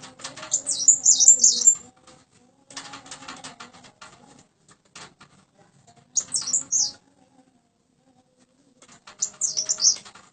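Cipoh (common iora) singing three short bursts of rapid, high-pitched twittering notes. Between the first and second bursts there is a stretch of rustling and clicking.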